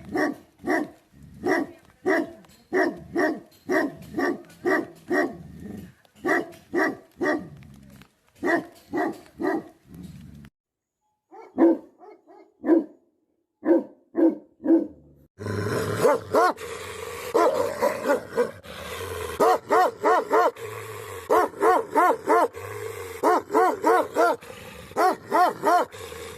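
Tibetan mastiff barking over and over in a steady rhythm, about two to three barks a second, with a short pause about ten seconds in. In the second half the barking continues over a steady background noise.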